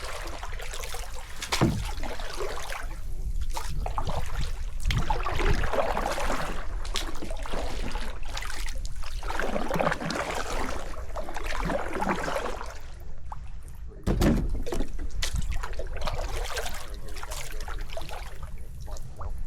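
Water sloshing and trickling around a kayak, with a few sharp knocks.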